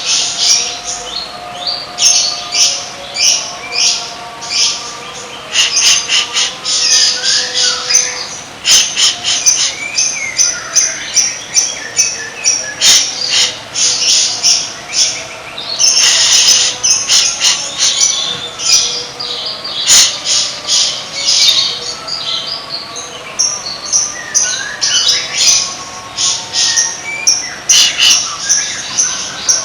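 A songbird singing a fast, unbroken run of short, harsh, chattering notes mixed with a few whistled glides, over a faint steady hum.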